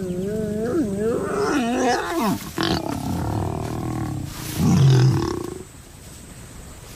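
Lions growling and snarling in wavering, drawn-out calls while mating, with a loud low grunt about five seconds in before it quietens.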